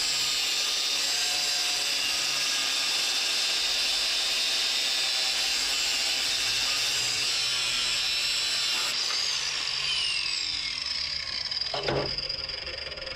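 High-speed power cutting tool, such as a cutoff wheel, whining steadily as it cuts through a seized bolt. After about nine seconds its pitch falls away as it spins down, and there is a single knock near the end.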